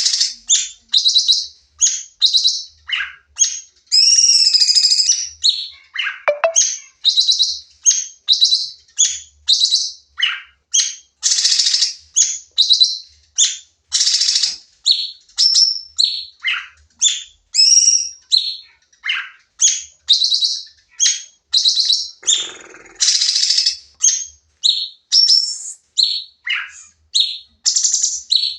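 Cucak cungkok songbird singing in a rapid-fire 'nembak' run: a steady stream of short, sharp, high chirps about two a second, with a few longer gliding calls among them.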